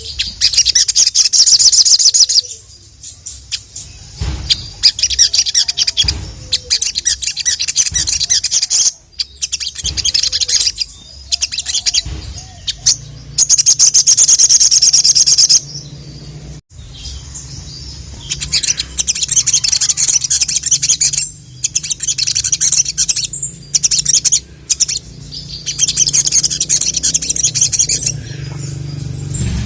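Sogok ontong (sogon) bird singing a full, varied song in bursts of rapid, high chirps a few seconds long, with short pauses between them; the song is played to call a male. A low hum sits underneath in the second half.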